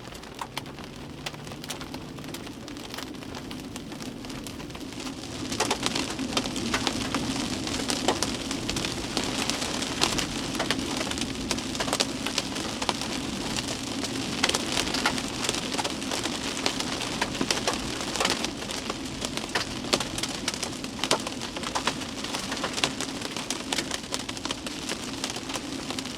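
Rain and hail pelting a moving vehicle's roof and windshield, heard from inside the cab: a dense patter with many sharp individual stone strikes, getting heavier about five seconds in as the car drives into the storm's hail core. A steady low hum of the vehicle runs underneath.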